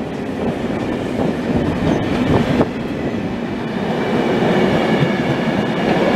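Heritage passenger coaches of a steam-hauled train rolling past at speed, wheels clattering on the rails over a continuous rumble, with a couple of sharp knocks about two seconds in.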